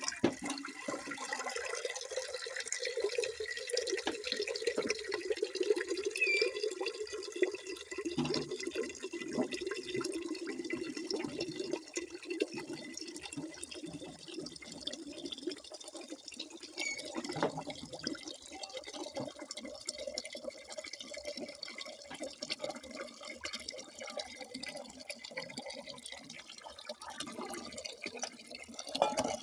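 Water running and splashing steadily, full of small irregular drips and splashes, with a fuller gush in roughly the first eight seconds that then eases off.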